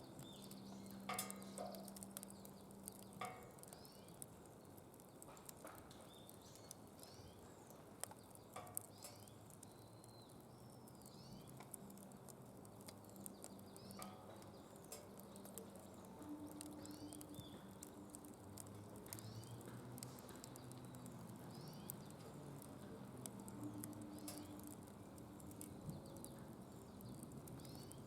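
Wood fire burning in a secondary-combustion fire pit, crackling with scattered sharp pops and a light hiss, the pops thicker in the first few seconds.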